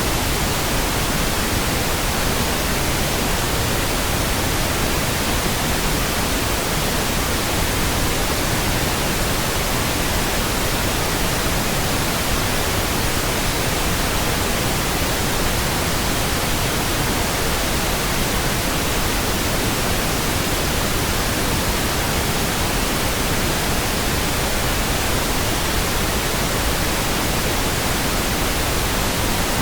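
Steady pink noise: an even, unchanging hiss spread across all pitches, with no tones or breaks.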